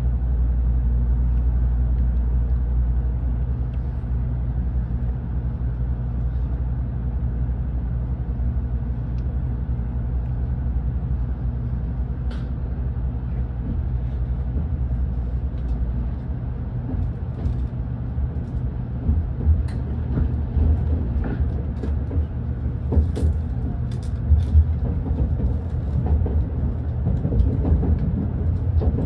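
Inside a Tokaido Shinkansen car as the train starts off and gathers speed. A steady low hum gives way, from about halfway, to a heavier, uneven rumble of wheels on rail with scattered clicks near the end.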